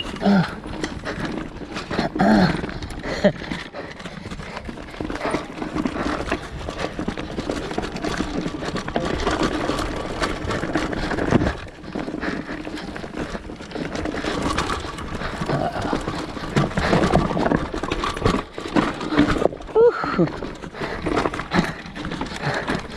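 Off-road vehicle engine running at low speed on a rough trail, with knocks and rattles from the vehicle working over rocks.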